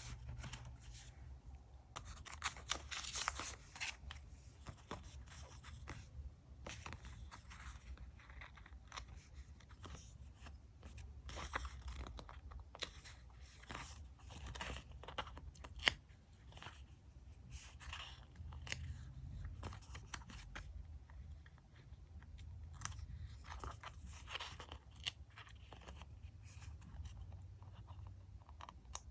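Close-up paper and stationery handling during diary decorating: scattered rustles, crinkles and small taps, with a faint steady low hum underneath.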